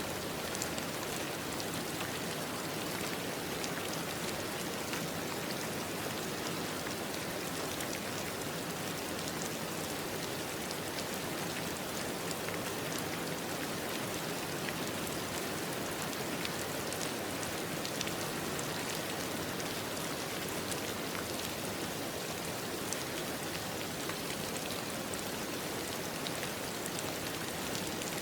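Steady rain falling, an even patter of many small drops with no thunder.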